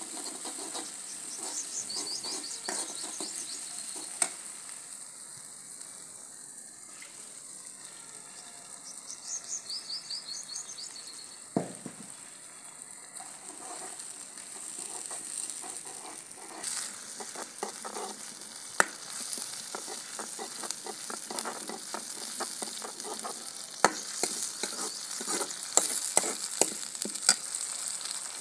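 Spiced masala frying and sizzling in oil in a karahi, stirred with a steel ladle that scrapes and clinks against the pan now and then. The clinks and sizzle grow busier in the second half. The masala is being fried down (bhuna) with a little water added.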